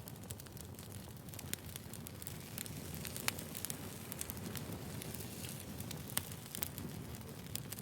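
Firewood burning, crackling steadily over a soft hiss, with frequent sharp pops and a few louder snaps scattered through.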